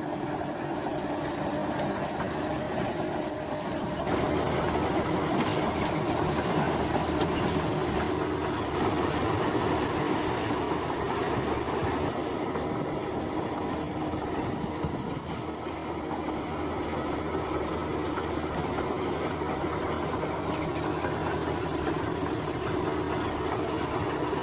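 Crawler bulldozer working: a steady diesel engine note under the intermittent high squeal and clatter of its steel tracks.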